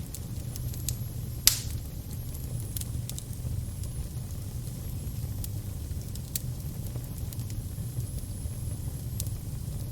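Fire burning with a steady low rumble and scattered sharp crackles, one loud pop about a second and a half in. A faint, high, wavering whistle comes and goes.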